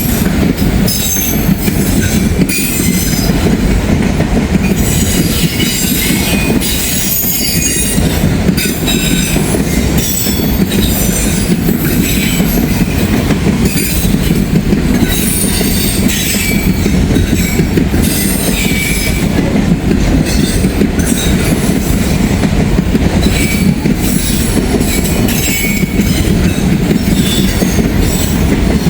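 Long freight train's cars rolling past close by: a steady, loud rumble of wheels on rail, broken by frequent short, high-pitched wheel squeals and irregular clacking over the rail joints.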